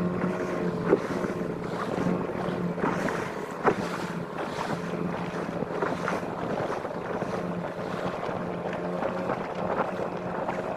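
A canoe's outboard motor running steadily, with wind on the microphone and water rushing past. There are two short sharp knocks, about one second and about three and a half seconds in.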